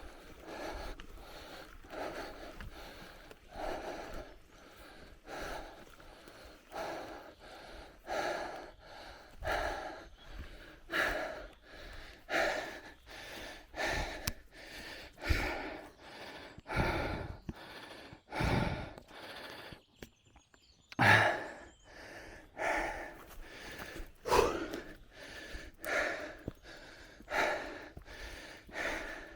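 A cyclist breathing hard and rhythmically while pedalling, a loud breath about every second and a half, with scattered knocks underneath. The breathing breaks off briefly about two-thirds of the way through.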